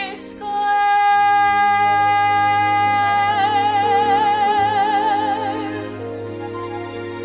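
A solo singer holds the song's long final note over instrumental accompaniment. The note starts straight and opens into a wide vibrato about three seconds in, then fades out near six seconds while the accompaniment carries on.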